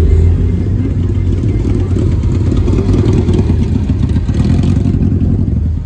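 A motor vehicle engine running loud and close, its sound easing off a little near the end.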